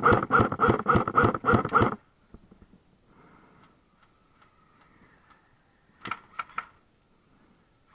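Airsoft gun firing a rapid string of shots, about six a second, for roughly two seconds. A short burst of three more shots follows about six seconds in.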